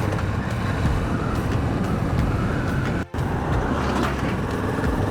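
Kawasaki Vulcan 650 parallel-twin motorcycle under way: a steady engine rumble mixed with road and wind noise. The sound cuts out abruptly for a split second about three seconds in.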